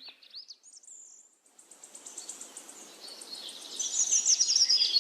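Birds chirping in quick, repeated high calls, growing louder about four seconds in, over a faint steady hiss.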